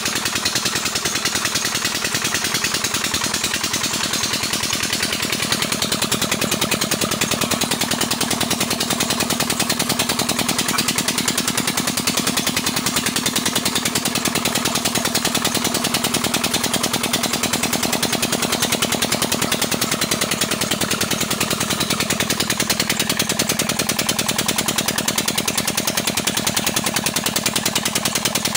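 Old 20 HP diesel engine running steadily, its exhaust beating in a fast, even rhythm.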